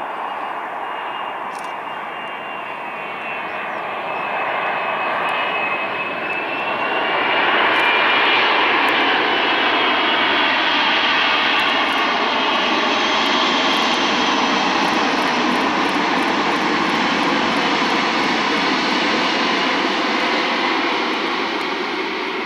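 Airbus A380 on landing, its four jet engines giving a whining rush that grows louder, peaks about a third of the way in, holds, and eases slightly near the end.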